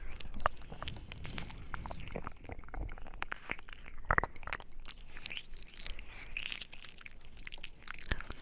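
Close-miked ASMR mouth sounds: rapid, irregular wet clicks and smacks of the lips and tongue, with a louder click about four seconds in.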